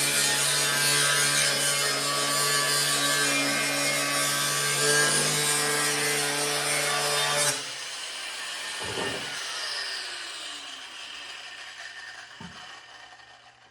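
Angle grinder cutting through steel, a loud steady grind that stops abruptly about seven and a half seconds in. The disc then winds down with a falling whine, and there are a couple of dull knocks.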